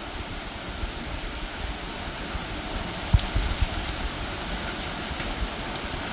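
Steady heavy rain falling at night, a continuous even hiss. A few gusts of wind buffet the microphone with low thumps about three seconds in.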